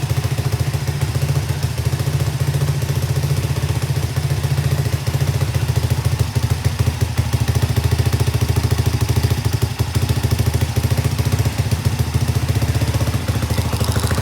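Honda FTR223's single-cylinder engine idling steadily through a Supertrapp aftermarket muffler, an even run of exhaust pulses.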